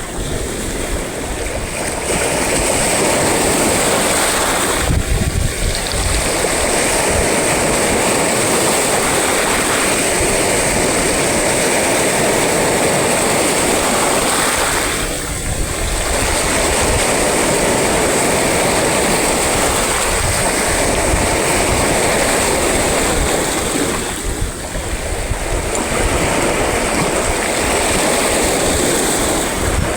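Sea surf: waves breaking and washing continuously, with a deep rumble. The noise eases briefly about every ten seconds, between waves.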